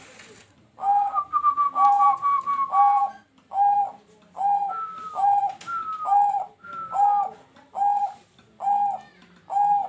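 A pet talking bird whistling a short phrase over and over, about ten times, roughly once a second: each repeat is a clear steady note paired with a higher note that slides slightly down.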